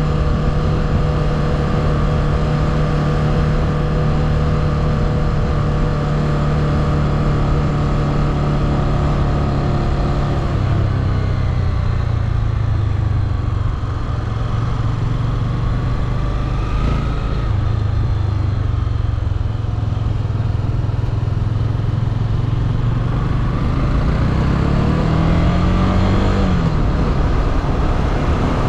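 Motorcycle engine running steadily at cruising revs. About a third of the way in the revs drop and hold lower. Near the end they rise in a short climb, fall off sharply and settle back at the earlier pitch.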